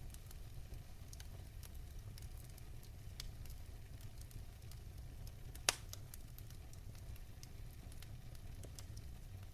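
Wood fire burning in a fireplace: a low steady rumble of the flames with scattered crackles and one sharp, louder pop near the middle.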